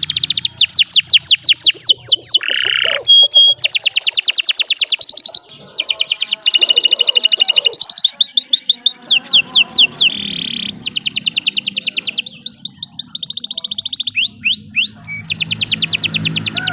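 Domestic canary singing a long, unbroken song: fast trills of repeated falling notes, several per second, switching to a new phrase every second or two.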